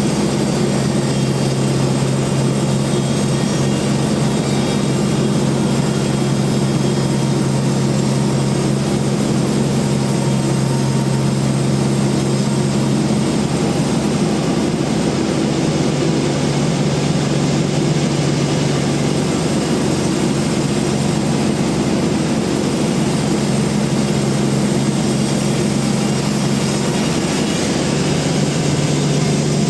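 Band sawmill running steadily: a constant low machine hum with a hiss spread over it.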